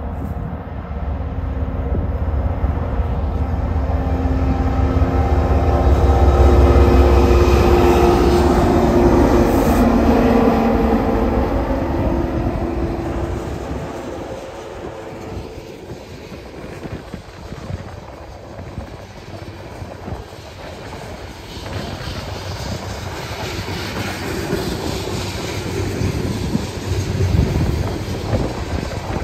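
A loaded coal train passing behind a GE locomotive and two EMD SD70MAC diesel-electric locomotives. The locomotives' engines grow louder and peak about a third of the way in, their pitch dropping as they pass. Then the loaded coal gondolas roll by with a rhythmic clickety-clack of wheels over the rail joints.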